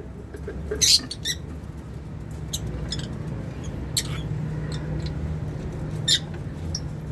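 Pet lovebirds giving short, sharp, high-pitched chirps and squawks, a few at a time with gaps between, a quick cluster about a second in, over a steady low hum.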